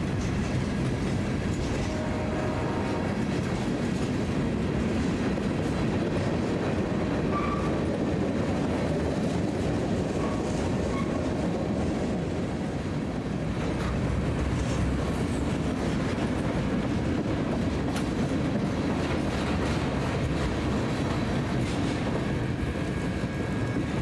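Freight train cars rolling past, a steady, even rumble of steel wheels on rail.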